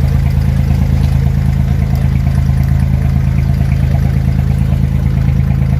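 Abra water taxi's engine running steadily at idle, a constant low engine note with a fine regular pulse.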